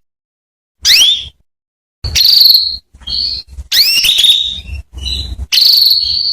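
Female canary calling: a series of high, short calls, several sweeping sharply upward in pitch and some running into brief trills, with short gaps between them.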